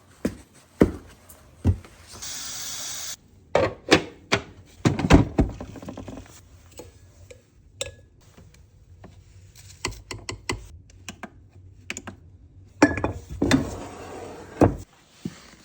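Handling noises: an uneven series of knocks and clatters, with a steady hiss lasting about a second some two seconds in.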